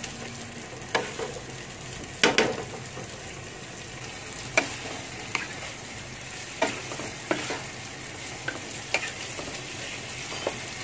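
Sliced onions, garlic and tomato sizzling in hot oil in a wok, being sautéed until the onions soften. A steady sizzle runs throughout, broken by scattered scrapes and knocks of a wooden spatula stirring against the pan, the loudest about two seconds in.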